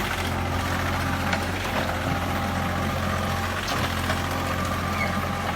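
Komatsu PC40 mini excavator's diesel engine running steadily at a low, even speed, with a few faint clicks over it.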